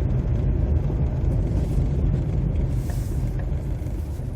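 Car driving on snowy, slushy roads, heard from inside the cabin: a steady low rumble of engine and tyres, with a brief hiss about three seconds in.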